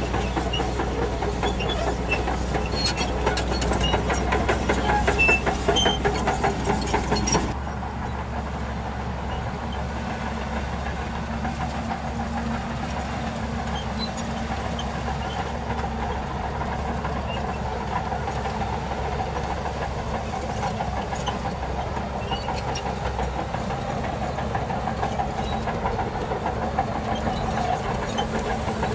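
Shantui DH17C2 crawler bulldozer's diesel engine running under load with steady clanking of its steel tracks. About seven seconds in, the sound changes abruptly to a quieter, steadier engine note with less clatter.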